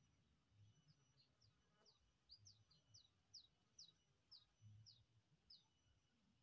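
A small bird calling faintly: a series of about a dozen short, high notes, each sliding downward, roughly two a second, starting about a second in and stopping near the end.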